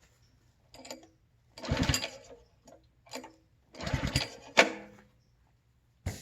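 Recoil starter cord of a Simpson ALH3228-S gas pressure washer yanked twice, the engine turning over briefly each time without catching, with a sharp snap near the end of the second pull. The pulls are stiff with engine compression and water pressure building in the pump.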